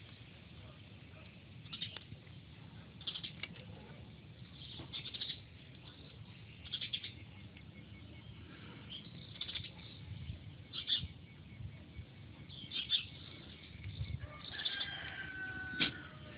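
Outdoor birdsong: short high chirps every second or two, and a longer call near the end.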